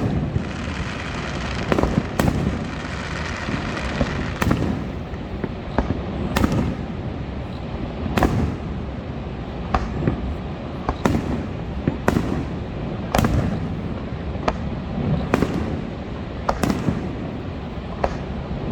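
Fireworks going off: about a dozen sharp bangs, one every second or two, over a steady background rumble, with crackling in the first few seconds.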